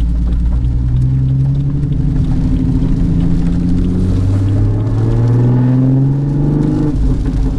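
Big-turbo BMW B58 3.0-litre turbocharged inline-six accelerating hard, heard from inside the cabin: the engine pitch climbs, drops once about four seconds in as it shifts up, climbs again, then falls away near the end as the throttle comes off.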